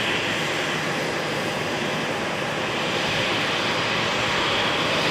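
Airbus C295M's twin Pratt & Whitney PW127G turboprop engines running steadily on the ground, a continuous hissing whine over a low hum that grows slightly louder.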